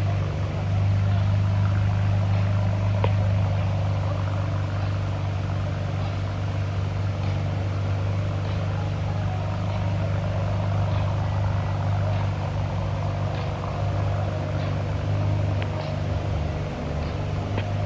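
A car engine idling steadily with a low, even hum, with faint light ticks over it.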